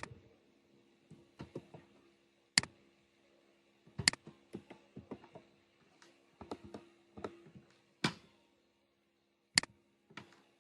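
Computer mouse clicks and keyboard taps: a handful of sharp single clicks a second or more apart, with runs of softer quick ticks between them, over a faint steady electrical hum.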